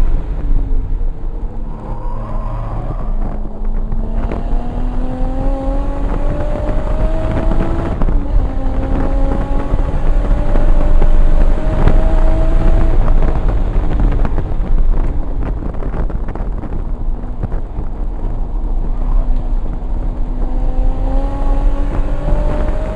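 Single-turbo Toyota Supra's inline-six under hard acceleration on track: the engine note climbs through the gears, dropping back at each upshift, eases off about halfway through, then builds again near the end. A heavy low rumble of road and wind noise runs underneath.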